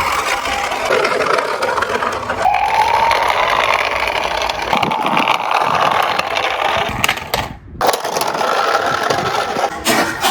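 Small toy cars rolling and rattling down a slope, their little wheels clattering and scraping along the surface.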